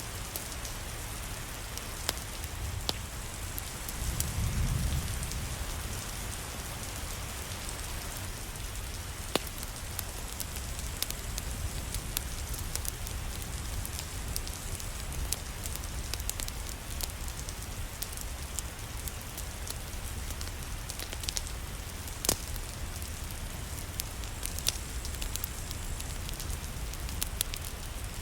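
Steady rain mixed with a crackling fireplace, with sharp pops scattered through it. A brief low rumble swells about four seconds in.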